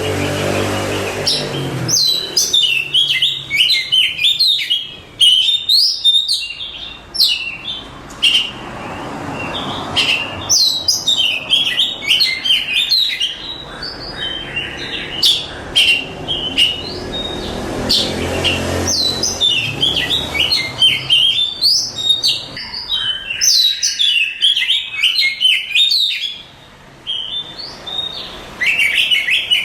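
Oriental magpie-robin singing a loud, varied song of fast whistles, trills and chattering phrases, delivered in bouts with short pauses between them.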